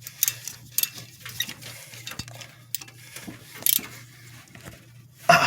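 Hand tools clinking against metal while a spark plug is being worked out: scattered sharp metallic clicks and taps, with a louder burst near the end, over a steady low hum.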